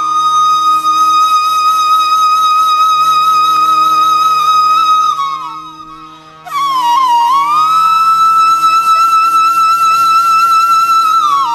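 Background flute music: long held notes with ornamented bends over a steady low drone, breaking off about halfway and starting a new phrase a second later.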